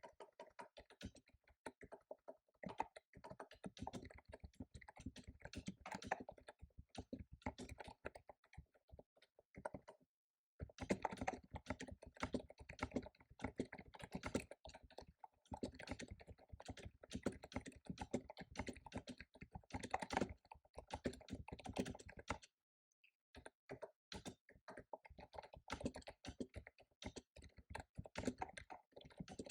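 Typing on a computer keyboard: a dense, rapid run of key clicks, with two short pauses, about ten seconds in and again a little past twenty.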